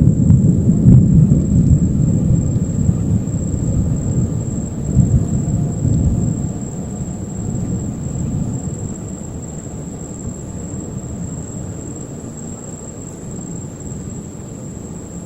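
Rolling thunder from a lightning storm: a low rumble, loudest at the start, dying away over about eight seconds.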